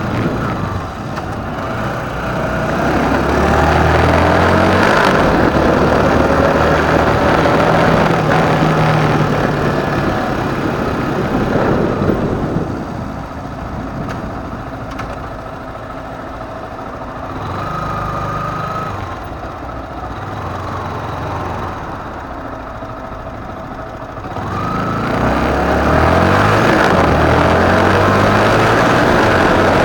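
Motorcycle engine with road noise, heard from on the bike: it runs loud, drops to a quieter low running for about ten seconds in the middle, then picks up and runs loud again near the end.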